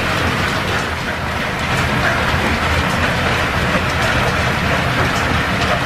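Belt-driven workshop machinery powered by a steam engine through line shafting, running steadily. A continuous mechanical rumble and hiss with a faint clatter.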